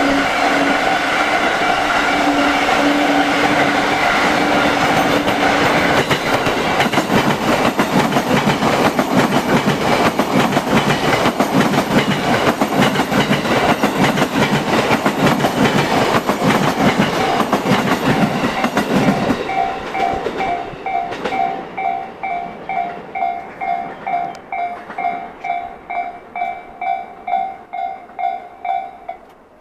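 An electric train passing close by at speed, its wheels clattering rapidly over the rail joints for about twenty seconds. As it fades, an electronic warning bell rings on in steady pulses about twice a second.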